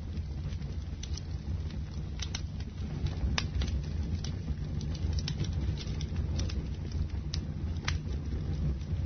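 Bonfire burning, with a steady low rumble of the flames and irregular sharp crackles and pops of burning wood, several a second.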